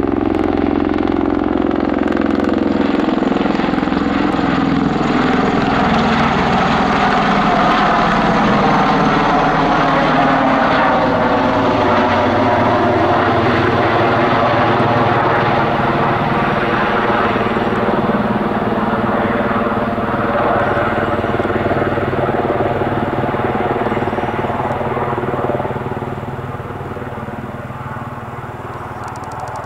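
Bell Boeing MV-22B Osprey tiltrotor on its landing approach: the loud drone of its two large proprotors and turboshaft engines, a stack of tones whose pitch bends as the aircraft passes. It grows quieter about 26 seconds in.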